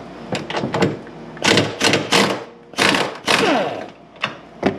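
Ratchet wrench on a 15 mm nut, worked in about five short bursts of rapid clicking as the nut is run off. A few light metal clicks come first, and a sharp knock comes near the end.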